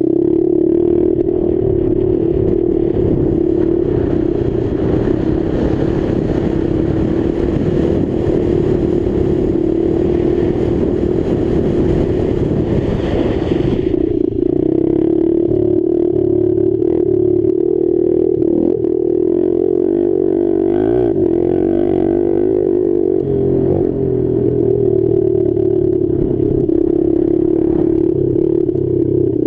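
Dirt bike engine running hard under the rider, heard from a helmet-mounted camera; its pitch wavers but holds at a steady high pace. A rushing hiss rides over it until about halfway through, then cuts off suddenly.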